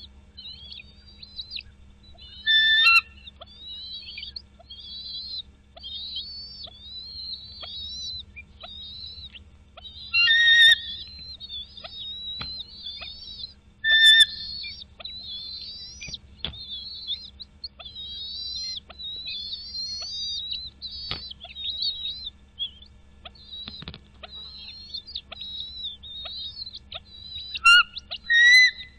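Birds chirping rapidly and continuously in short, high notes, broken by four much louder, harsher calls: one about two and a half seconds in, one about ten seconds in, one at fourteen seconds and two close together near the end.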